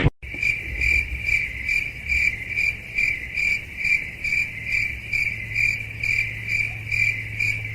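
Insect chirping: a steady high trill pulsing evenly about two and a half times a second, over a low hum.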